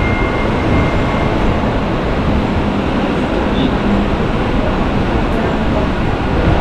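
Mumbai suburban electric local train running on the rails, a loud steady noise of wheels and carriage.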